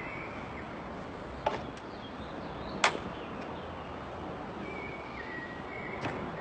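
Sharp clicks or taps, a pair about a second and a half in, the loudest about three seconds in and another near the end, over steady outdoor background noise with faint high chirps.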